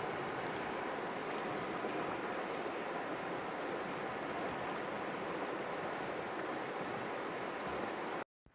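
River water rushing, a steady even noise of flowing water that cuts off abruptly near the end.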